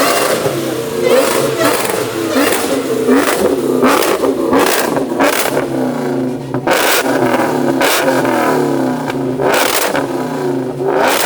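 Car engine revved hard again and again, its pitch rising and falling, with loud sharp bangs from the exhaust about every half second to a second.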